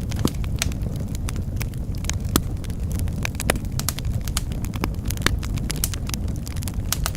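Wood fire crackling in a fireplace: frequent irregular sharp pops and snaps over a steady low rumble of burning logs.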